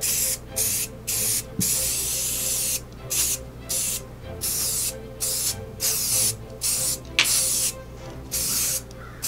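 Aerosol spray paint can hissing in a string of short, irregular bursts, one held for over a second, as the paint is sprayed on.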